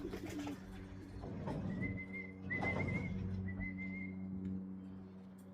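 A person whistling to call racing pigeons in to trap at the loft: three short, level, high whistles about a second apart, over a low steady hum.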